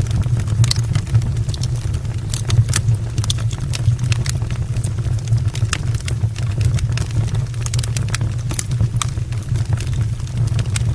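Wood fire burning in an open brick fireplace: a steady low rumble under frequent, irregular sharp crackles and pops from the burning logs.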